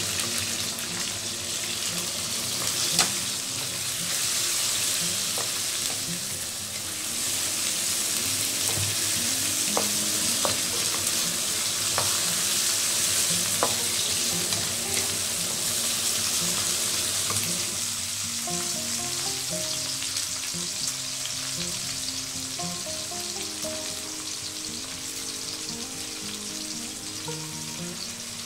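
Sliced shallots, garlic, ginger and green chillies sizzling steadily as they fry in oil in a steel wok. A wooden spatula knocks against the pan a few times, most sharply about three seconds in.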